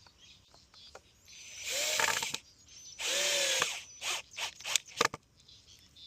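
Power drill run in two short bursts, its motor whine rising and falling each time, followed by a string of short clicks and knocks.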